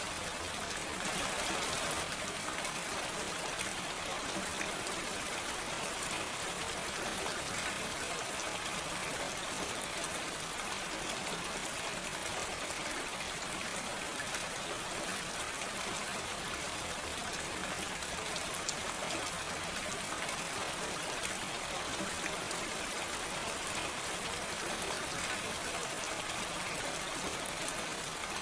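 Steady gentle rain without thunder: an even hiss full of fine pattering drops.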